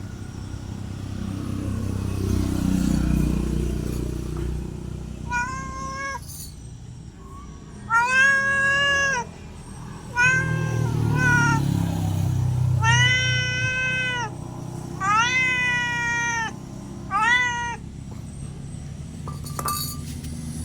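A domestic cat meowing six times, each call about half a second to a second long, over a low rumble.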